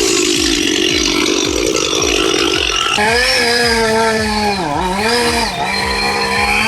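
Chainsaw running at high revs, cutting wood with a dense rasping sound for about three seconds, then a steady high engine note. About four and a half seconds in, the pitch dips briefly and recovers.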